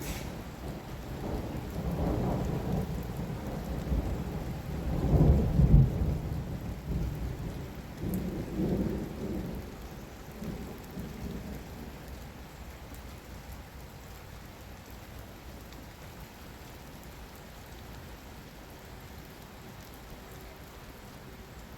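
Rolling thunder over steady heavy rain: a deep rumble builds, is loudest about five seconds in, swells again more weakly a few seconds later and dies away, leaving the steady rain.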